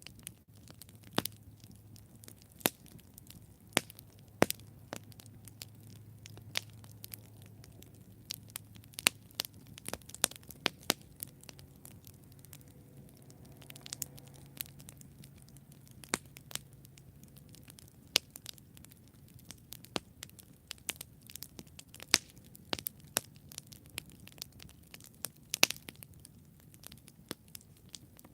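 Wood campfire burning with irregular sharp crackles and pops over a soft low rush of flame, a few pops much louder than the rest. A faint low hum or hiss from the burning wood comes and goes.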